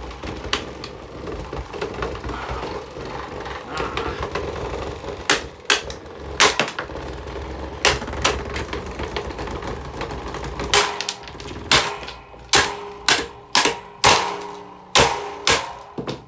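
Running table fan with broken blades rattling and bouncing about, its motor humming. Sharp knocks come as it strikes things, a few at first and then many loud ones close together in the last five seconds.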